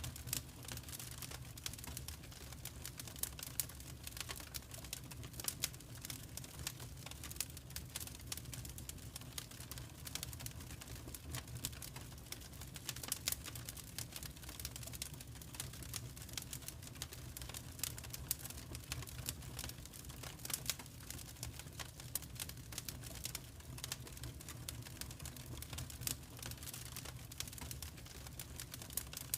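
Wood fire crackling in a fireplace: dense, irregular small pops and snaps over a low steady rumble.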